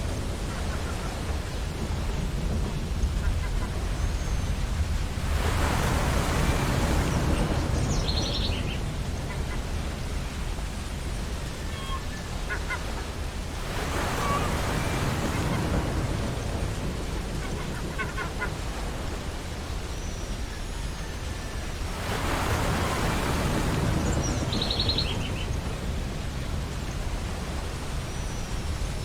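Ocean waves breaking on a beach, surging about every eight seconds over a constant low rumble of surf. Short, high bird calls come in a couple of times over the waves.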